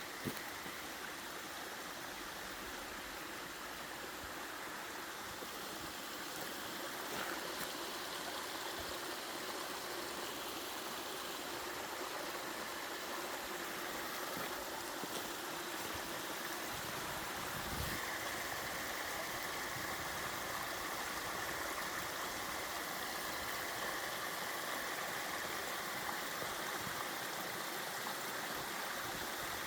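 Mountain valley stream flowing, a steady wash of water that grows a little fuller about eighteen seconds in.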